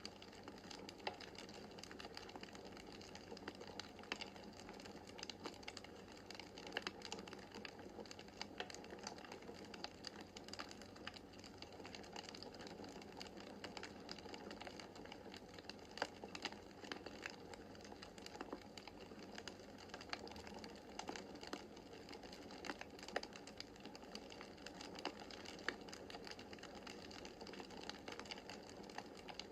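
Wood fire burning in a fireplace: a soft steady hiss of the flames with frequent irregular crackles and sharp pops from the logs.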